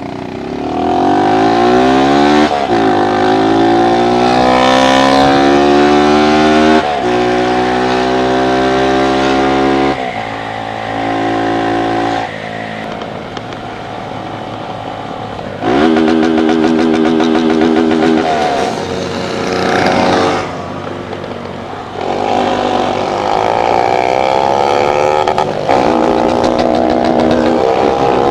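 Motorcycle engine running hard under throttle, its pitch climbing and then dropping sharply several times, like shifts or repeated revs, with a few steadier held stretches between.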